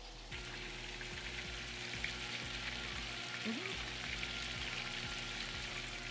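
Chicken pieces frying in oil in a skillet: a steady sizzle that sets in sharply just after the start and holds evenly.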